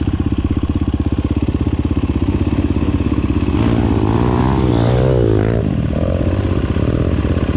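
Dirt bike engine running at low revs with a rapid, even pulse; from about four to five and a half seconds in, engine revs rise and fall.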